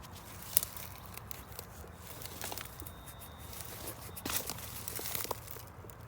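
Scratching, rustling and crunching of dirt and leaf litter being worked through by hand at a dig hole, with one sharp click about half a second in and a denser run of rustling near the end.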